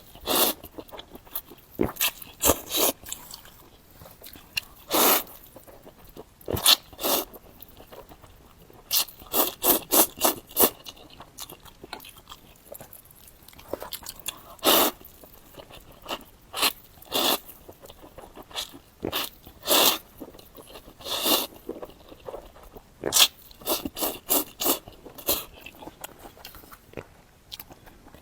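Close-miked eating of spicy Korean fire noodles: chewing and mouth sounds in short, irregular bursts, some coming in quick runs.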